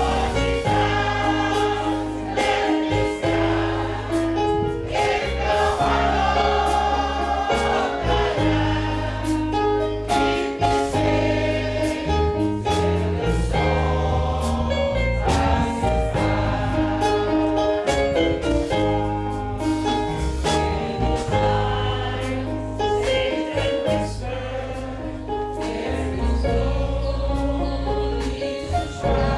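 A choir singing a gospel song over instrumental accompaniment with a strong bass and a steady beat.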